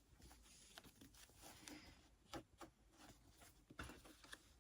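Near silence: room tone with a few faint, soft clicks and rustles, a little stronger about two and a half and four seconds in.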